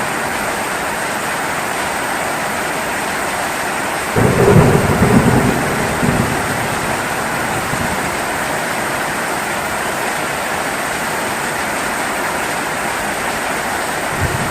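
Steady heavy rain, with a sudden low rumble of thunder about four seconds in that lasts about two seconds before the rain carries on alone.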